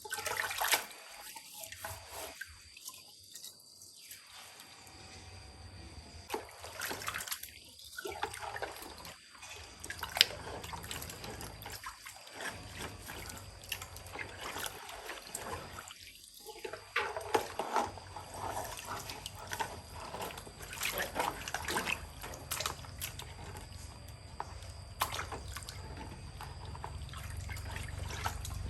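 Water trickling and dripping, with scattered light clicks and knocks. A low steady hum comes in during the second half.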